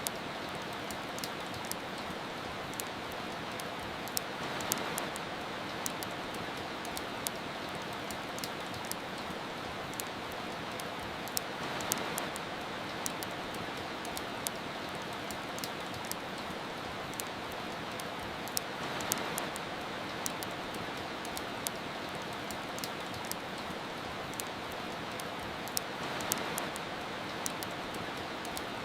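Steady hiss of soft rain with frequent sharp crackles and pops from a wood fire. The rain swells a little about every seven seconds.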